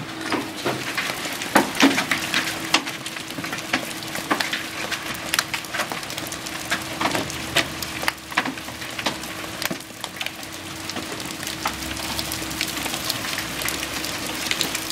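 Hail and heavy rain pelting a house: a steady hiss of rain with many irregular sharp hailstone strikes of varying loudness, under a faint steady hum.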